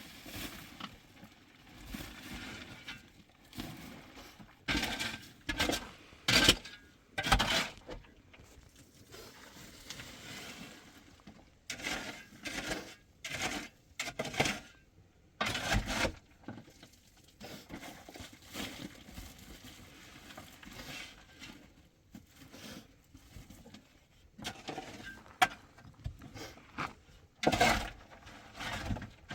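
Irregular knocks, scrapes and clinks of hard objects being handled, loudest in a few clusters.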